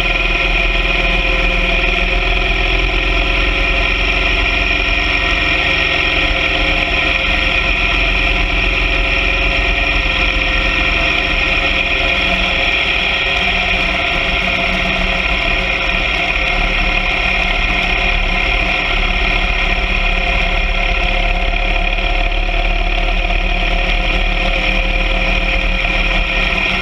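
BMW R 1200 GS Adventure sidecar rig's boxer-twin engine running at a steady, unchanging speed over a constant haze of noise.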